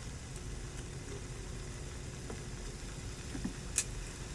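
Ground beef frying faintly in an enameled cast iron pot over a steady low hum, with one sharp click near the end.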